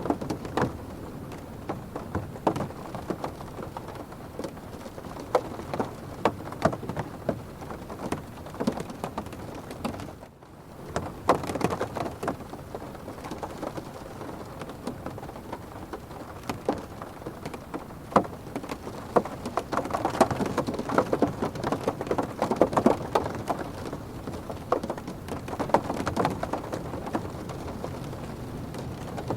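Heavy rain pattering on a car's roof and windows, heard from inside the cabin: a dense steady wash of drop hits, heavier in the second half, with a brief drop-out about ten seconds in.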